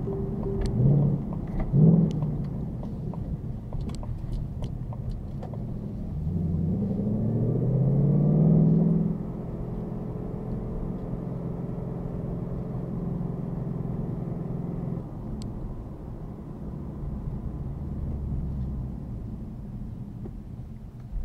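Ford Mustang GT's V8 engine: two short blips about one and two seconds in, then accelerating with a rising pitch for about three seconds, then cruising steadily, settling to a lower, quieter drone about two-thirds of the way through.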